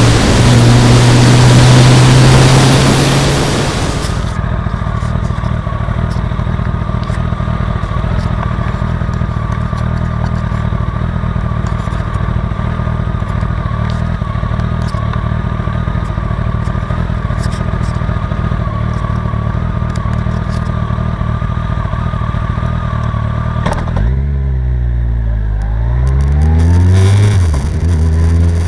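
Kawasaki ZZR 1400 inline-four motorcycle engine heard from a bike-mounted camera, with heavy wind noise for the first few seconds. The wind then drops away, leaving the engine running at a steady pitch with faint ticking. Near the end the engine pitch falls and then climbs again as it revs.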